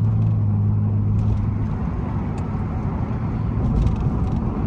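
Muffler-deleted 2002 Pontiac Grand Prix GT's 3.8-litre V6 exhaust droning steadily while driving. About a second in, the drone gives way to a rougher, less steady rumble with a few faint clicks.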